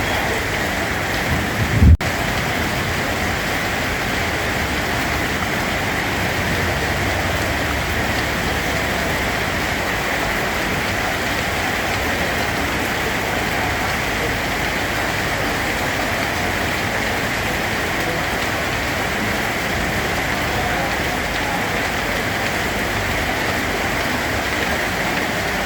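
Steady rain falling on a surface, an even hiss without thunder. A single brief low thump about two seconds in, followed by a split-second dropout.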